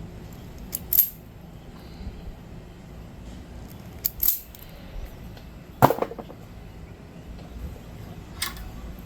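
A few separate sharp clicks and knocks from small hand tools and parts being handled during wiring work, the loudest a heavier knock about two-thirds of the way through.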